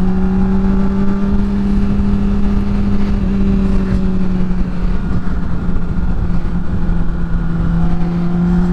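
Honda CBR600 sport bike's inline-four engine running at a steady cruise, with wind rushing on the helmet microphone. The engine pitch sags a little midway, as the throttle eases, and rises back up near the end.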